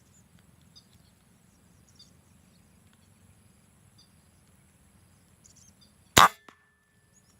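A single sharp shot from a bird-hunting air gun, about six seconds in, followed a moment later by a faint tick. Faint high chirps of small birds come before it.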